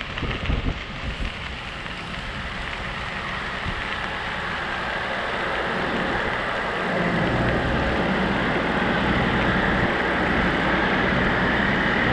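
Wind rush on the microphone and bicycle tyre noise while riding, growing louder, with a few knocks in the first second. A low engine hum joins about seven seconds in.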